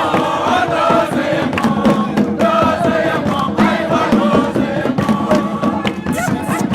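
A group of voices singing and chanting together over sharp percussive beats.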